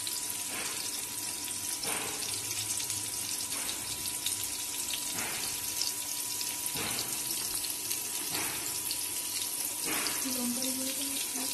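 Tomatoes and onions frying in oil in a kadai: a steady sizzle that swells louder about every one and a half seconds.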